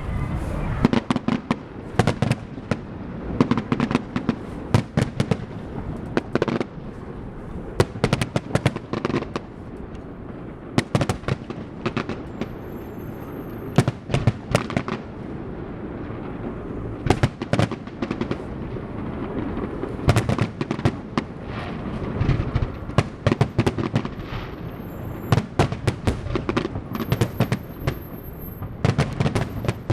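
Fireworks and firecrackers going off: many sharp bangs and pops in irregular clusters over a steady background din.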